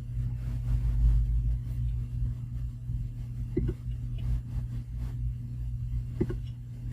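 Steady low electrical hum with two faint clicks, one about halfway through and one near the end.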